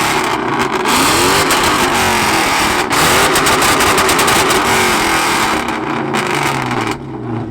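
A car engine revved hard again and again through a very loud exhaust, the pitch climbing and falling with each rev, before it eases off near the end.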